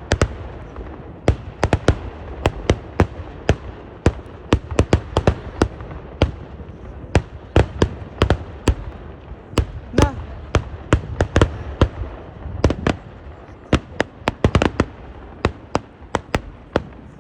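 Kerala temple-festival fireworks (eeduvedi): a run of single sharp explosions going off one after another, roughly two to three a second at uneven spacing, some louder than others, over a low rumble.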